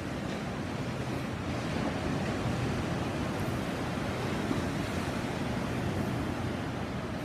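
Sea waves washing onto a beach in a steady, continuous surf, with some wind on the microphone.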